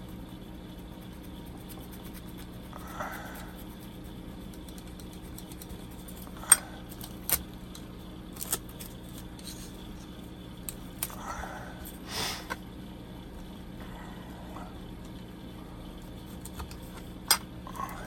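A few scattered sharp clicks and taps of a plastic model kit and sellotape being handled, with one short rasp about twelve seconds in, over a steady low hum.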